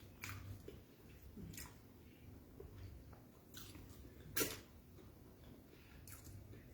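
A person chewing and eating beans with fried plantain, with close mouth sounds. About five short sharp clicks are heard, the loudest about four and a half seconds in.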